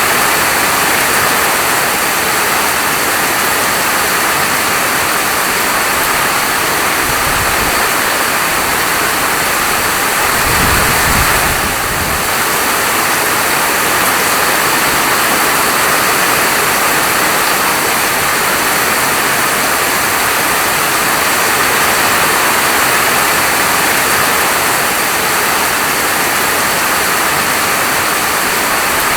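Steady, dense rain falling, a loud even hiss with no let-up. A brief low rumble comes about ten seconds in.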